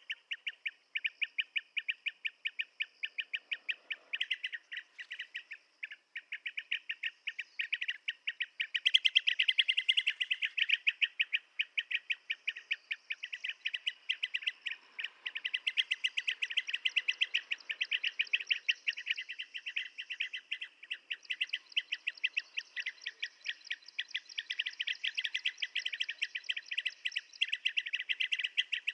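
Blue-tailed bee-eaters calling: a continuous stream of short, rapidly repeated chirping notes, many each second, with no pause, a little louder about nine seconds in.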